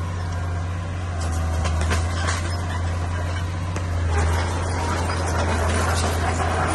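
Bulldozer's diesel engine running steadily with a deep drone, with scattered knocks and clanks from tracks and stone.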